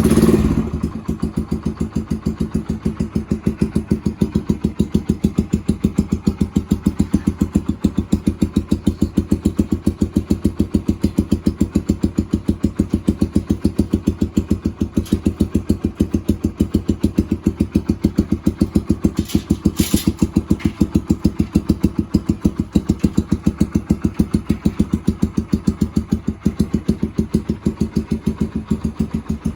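Yamaha XTZ 125 single-cylinder four-stroke engine breathing through an SC Project aftermarket muffler, catching right at the start and then idling steadily with even, rapid exhaust pulses.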